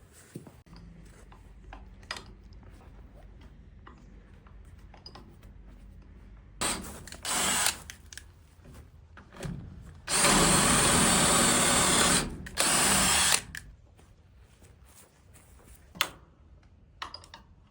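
Power drill running in bursts: two short bursts, then a run of about two seconds and another of about a second.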